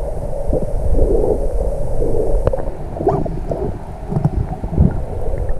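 Wind buffeting the microphone: a loud, uneven rumble with a few brief knocks.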